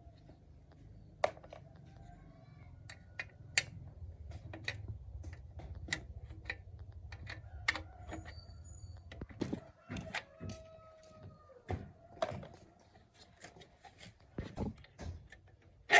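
Hand tools and small metal engine parts clicking and clinking as an old gasoline engine is worked on, in irregular sharp taps and knocks, with a short metallic ring near the middle. A low hum underneath stops about nine seconds in.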